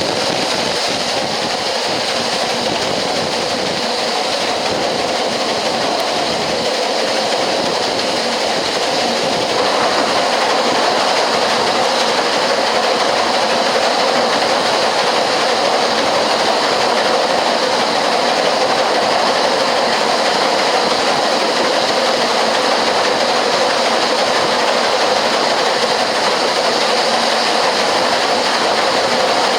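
Narrow-gauge passenger train running along the Ffestiniog Railway: a steady rumble and clatter of carriage wheels on the rails, a little louder from about ten seconds in.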